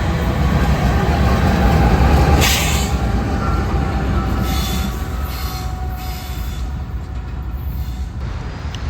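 Freight train rolling past, the rail cars rumbling steadily over the track with a thin steady wheel squeal, easing off over the second half.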